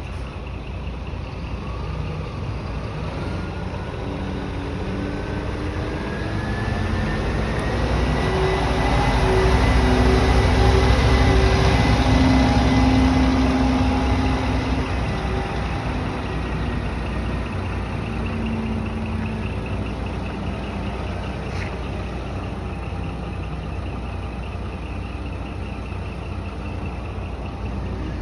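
Scania P360 truck's 12.7-litre diesel engine running steadily. About a quarter of the way in it rises in speed and loudness with a climbing whine, holds for a few seconds, then settles back to idle.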